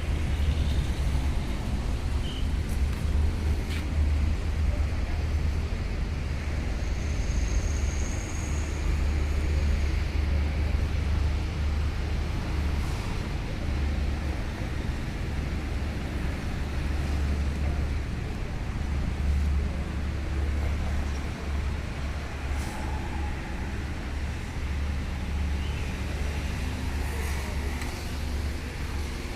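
Truck engine running steadily with a deep low rumble, amid road traffic noise. A brief high squeal sounds about seven seconds in.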